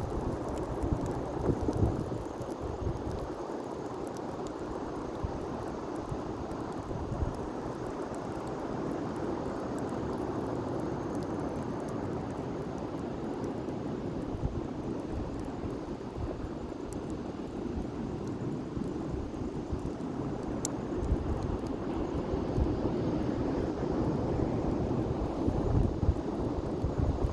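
Wind buffeting the microphone, with heavier low gusts near the start and the end, over a steady rushing noise.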